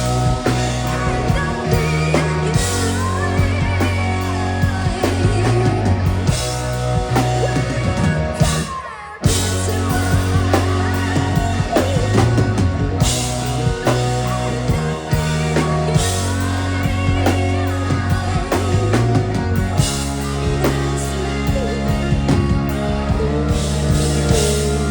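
Live rock band playing, with drum kit, bass and guitars; it drops out briefly near the middle and comes back in.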